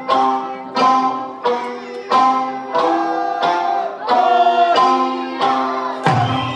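Okinawan eisa music: a sanshin plucked in a steady rhythm of sharply struck, decaying notes, about one and a half a second, with a singing voice faintly under it.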